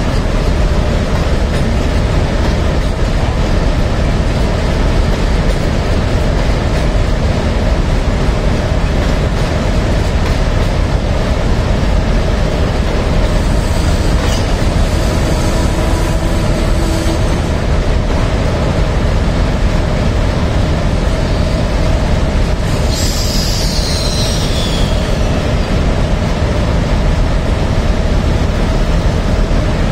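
Train of green China Railway passenger coaches rolling past, a steady rumble of wheels on rails. A short, faint high squeal comes about halfway through, and a clearer squeal that falls in pitch comes a little past two-thirds through.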